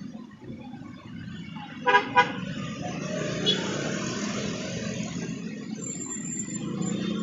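Vehicle horn tooting twice in quick succession about two seconds in, followed by the steady noise of passing traffic.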